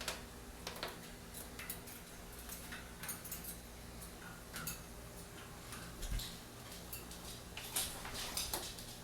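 Irregular light clicks and taps from a pet bird moving about its cage, over a steady low hum.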